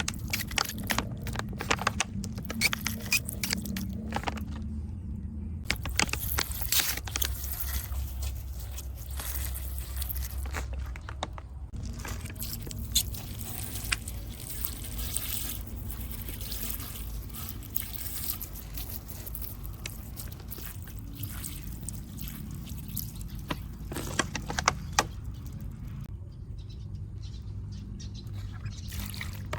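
Water pouring and splashing over a small model car, with scattered clicks, taps and scrapes.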